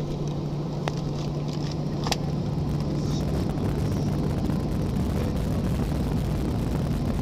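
Steady airliner cabin noise on the ground before takeoff, a low hum over a wash of engine and air-conditioning noise. Two short clicks come about one and two seconds in.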